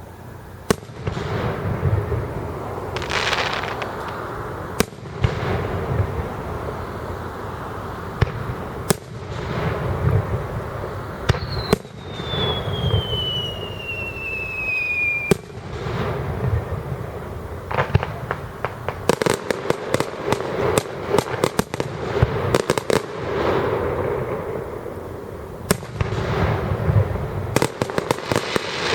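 Aerial fireworks going off: sharp bangs of bursting shells with deep rolling booms, a long whistle gliding down in pitch for a few seconds near the middle, and rapid crackling volleys of many small reports in the last third.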